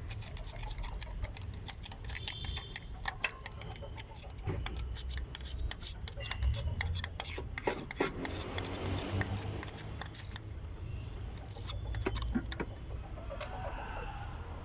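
Metal hand tools and parts clicking and clinking as they are handled during engine work, over a steady low hum.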